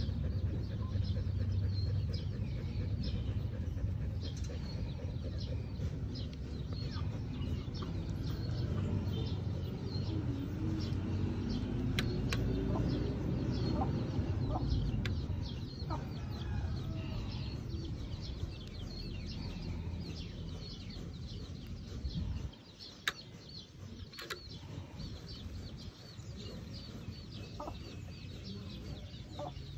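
Many short bird calls, farmyard-fowl-like, over a low steady rumble that stops suddenly about 22 seconds in, followed by a single sharp click.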